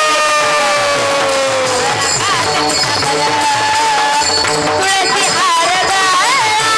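A woman singing a devotional melody. She holds one long note that slowly sinks over about two seconds, then moves into ornamented phrases with quick pitch turns, over a steady rhythmic accompaniment.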